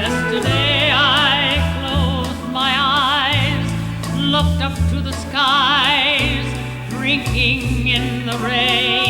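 A woman singing a song in long held notes with a wide vibrato, backed by an orchestra.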